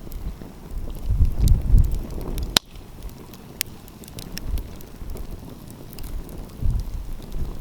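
Wood fire crackling, with scattered sharp pops and one loud pop about two and a half seconds in. Gusts of wind rumble on the microphone in the first half and again near the end.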